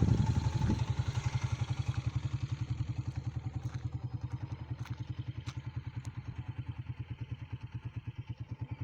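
An engine idling close by with a steady low chugging of about nine beats a second, easing slightly in loudness. A few faint clicks are heard about five seconds in.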